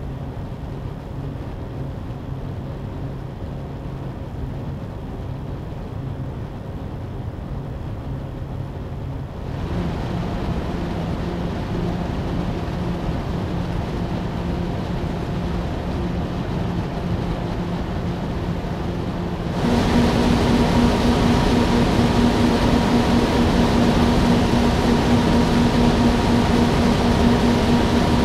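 NZXT Kraken X61 liquid CPU cooler's two 140 mm radiator fans running with a steady whooshing whir and a faint hum. The fan speed steps up twice, about a third and two-thirds of the way through, and each step makes the noise louder and raises the hum's pitch.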